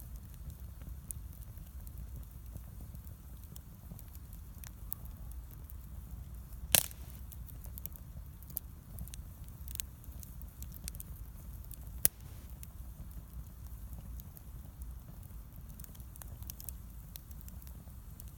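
Wood bonfire crackling, with many small scattered snaps and two loud sharp pops, about seven and twelve seconds in.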